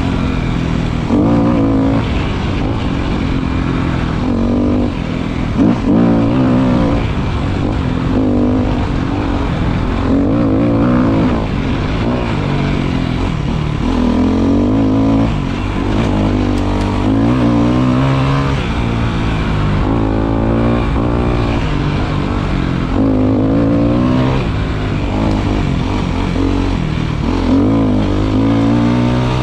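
Motorcycle engine running under way, its pitch rising and falling again and again as the throttle is opened and closed, over a steady low rumble of wind and road noise.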